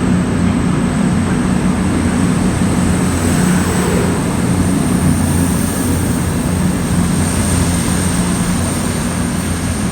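Class 221 Super Voyager diesel multiple unit's underfloor diesel engines running under power as the train pulls away, a steady deep drone with a thin high whine above it.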